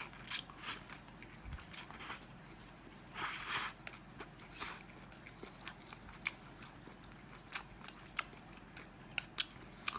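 Close-miked eating sounds: mouth clicks and chewing of scallop meat with vermicelli, with scattered sharp clicks and a few short hissing bursts, the longest about three seconds in.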